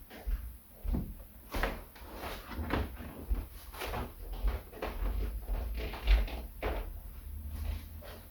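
A string of irregular knocks and clunks over a low rumble.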